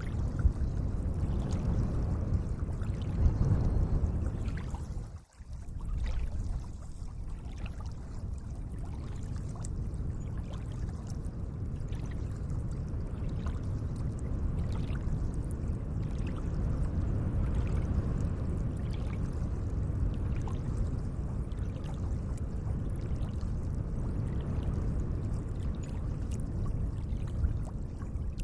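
Gentle lake water lapping and trickling, a steady wash of water noise dotted with many small splashes and drips. The sound drops out briefly about five seconds in, then carries on.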